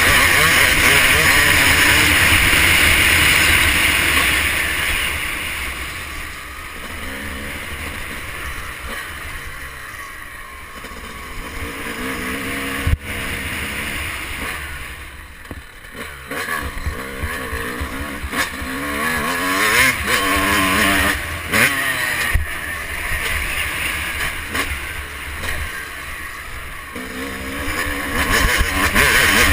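Motocross bike engine heard onboard, revving up and down as the rider accelerates and shuts off, with wind noise on the camera. It is loudest at the start and near the end and quieter through the middle, with one sharp knock about 13 seconds in.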